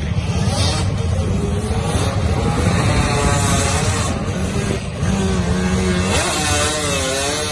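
Yamaha Banshee ATV's two-stroke twin engine revving hard on the dunes, its pitch climbing and dropping several times. It holds one note briefly past the middle, then winds up again.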